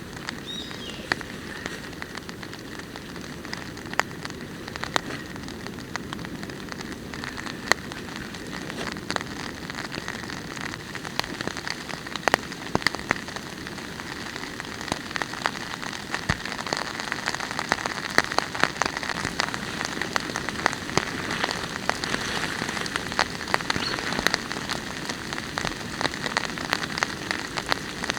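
Steady rain falling, with many sharp separate drops striking a nearby surface; the drops come thicker in the second half.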